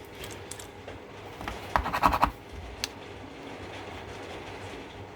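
Scratching and small clicks of parts and tools being handled on a loudspeaker crossover circuit board, with a short burst of scraping about two seconds in and one sharp click just after, over a steady low hum.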